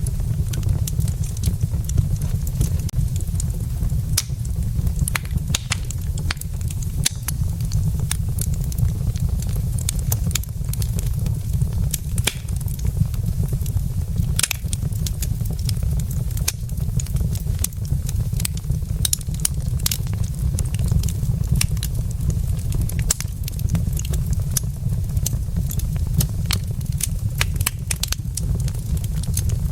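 Wood logs burning in a fireplace, crackling with many sharp, irregular pops over a steady low rumble.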